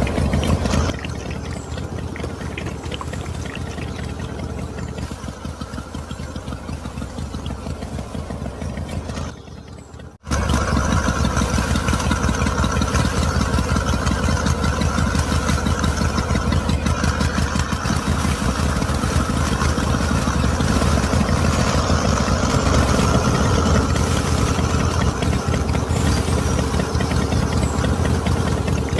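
Small motor of a miniature DIY model machine running with a fast, even chatter. It quietens about a second in, nearly cuts out just before ten seconds in, then starts again louder and runs steadily.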